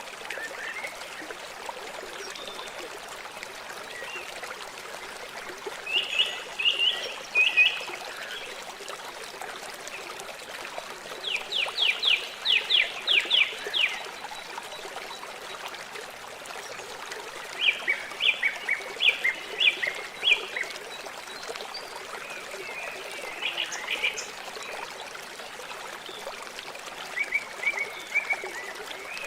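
River water flowing steadily, a constant rushing trickle, while a songbird sings short phrases of rapid high notes several times, the longest a quick run of about a dozen falling notes.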